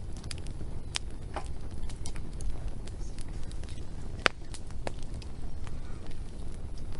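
Wood fire crackling: scattered sharp pops and snaps over a low steady rumble, the loudest pop about four seconds in.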